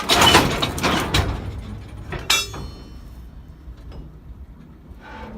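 A run of loud knocks and clanks in the first second or so, then a short ringing metallic squeal about two seconds in.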